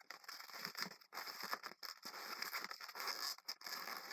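Latex 260 modelling balloons being handled and twisted, rubbing against each other and the hands in a continuous rustle broken by a few short gaps, as a pinch twist finishes the sculpture.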